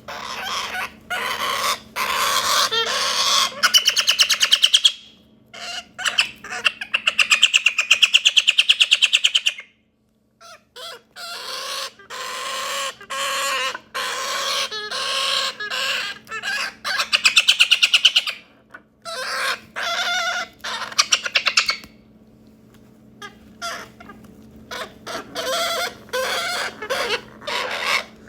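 A young galah (rose-breasted cockatoo) chick calling over and over in harsh, raspy bursts, some drawn out into fast pulsing trains. These are the begging calls typical of a parrot chick this age. There is a short pause about ten seconds in and a quieter lull past the twenty-second mark.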